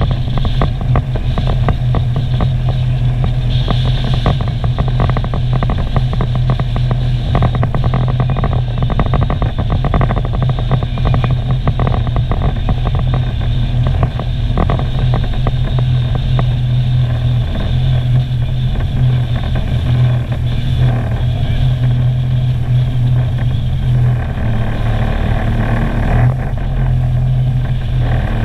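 Sea-Doo personal watercraft engine running steadily under way: a constant low drone with a dense, rough crackle over it.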